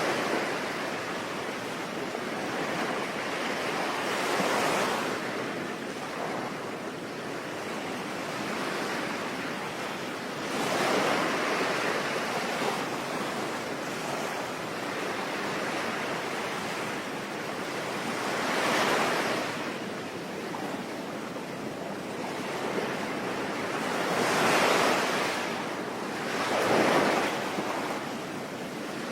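Ocean waves breaking and washing ashore, swelling louder every few seconds, five times, over a steady hiss of rain.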